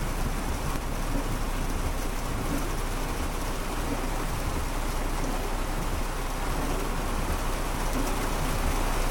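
Heavy rain pouring steadily on a car, heard from inside the cabin.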